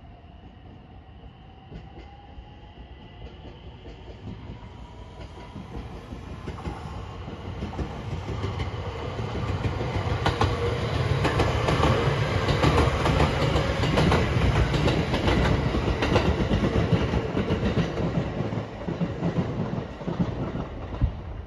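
A JR 227-series 'Urara' electric multiple unit passing close by. Its wheels clatter over the rail joints, building to a peak about halfway through and then fading as it moves away.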